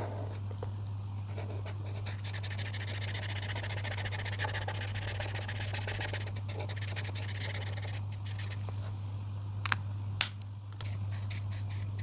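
Coloring strokes scratching across paper, densest in the first half, then two sharp clicks about ten seconds in, over a steady low hum.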